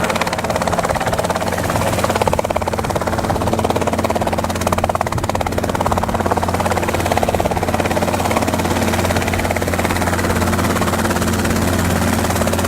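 Robinson R22 helicopter running steadily, its engine and rotor making a continuous drone.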